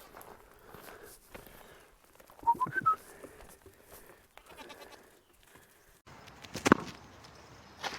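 A goat bleats briefly about two and a half seconds in, with short high whistle-like notes. Near the end there is one loud knock.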